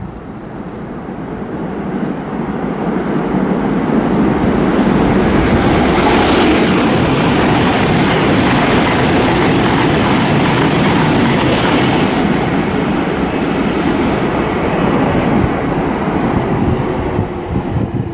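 Joetsu Shinkansen high-speed train running past a station platform: a rushing roar builds over the first few seconds, carries a sharp hiss for about six seconds in the middle, then fades near the end.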